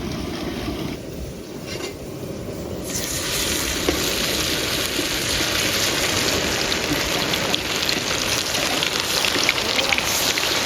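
Hot cooking oil sizzling and crackling in a pan, starting abruptly about three seconds in and carrying on steadily.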